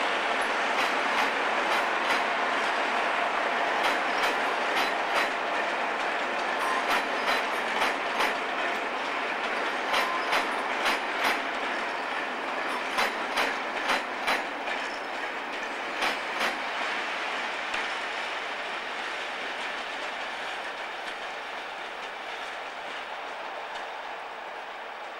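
Locomotive-hauled train of vans rolling past, its wheels clicking over rail joints and pointwork in quick clusters every few seconds. The rumble fades steadily as the train draws away.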